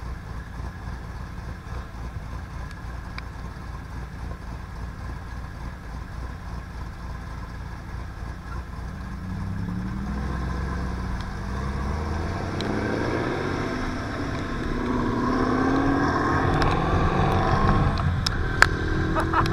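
Motorcycle engine running at low revs, then pulling away with its pitch rising as it accelerates about halfway through and getting steadily louder.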